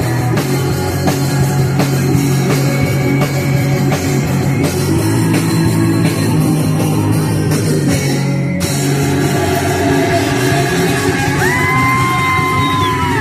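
Punk rock band playing live: distorted electric guitars, bass and drum kit at full volume with yelled vocals, and a single held high note near the end.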